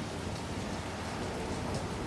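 Heavy rain pouring down during a thunderstorm, a steady hiss with a low, continuous rumble underneath.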